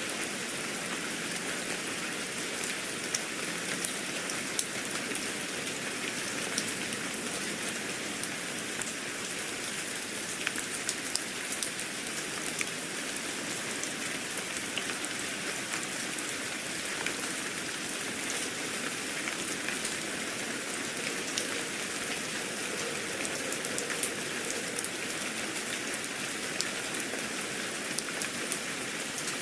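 Steady rain falling on a surface, with a dense patter of small drops and no letup.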